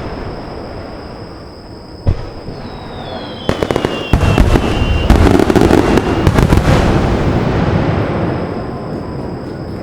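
Aerial fireworks going off: a single bang about two seconds in, a whistle falling in pitch, then a rapid barrage of sharp cracking bursts over a heavy rolling rumble that fades away near the end.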